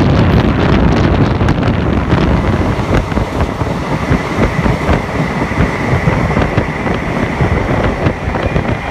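DEMU train running at speed through a station, heard from an open window of the coach: wheels clattering over rail joints and points, with rushing wind on the microphone. A thin steady high whine joins in about three seconds in.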